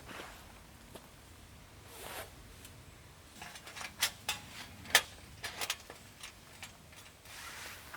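Objects being handled: a rustling swish about two seconds in and another near the end, with a run of sharp clicks and knocks in between.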